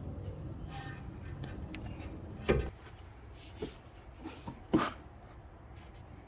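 Two sharp knocks about two seconds apart, with a few lighter taps between and after them, over a steady low hum.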